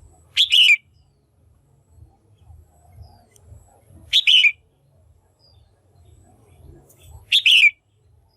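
Female red-whiskered bulbul calling: three short, loud calls about three seconds apart, each sliding down in pitch. This is the kind of call used to stir up male bulbuls or to pair them.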